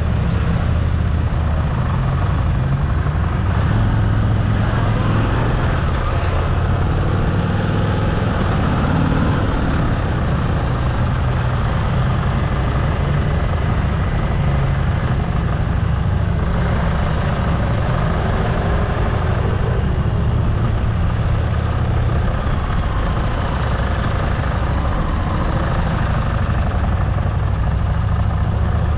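Motorcycle engine running steadily while riding, with a continuous rush of road and wind noise.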